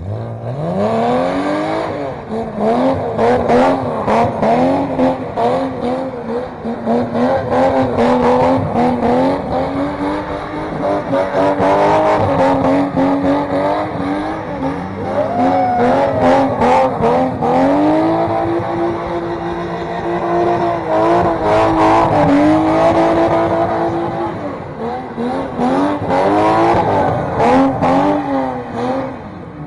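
A BMW E30's engine revved hard throughout: its pitch repeatedly climbs, falls back and climbs again, and is held high and steady for a second or two at a time. Frequent sharp cracks run through it.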